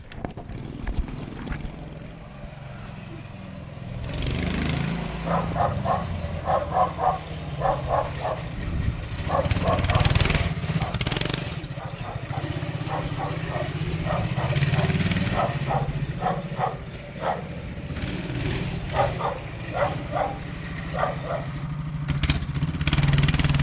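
Homemade motorcycle's engine running, with a dog barking repeatedly over it from about four seconds in.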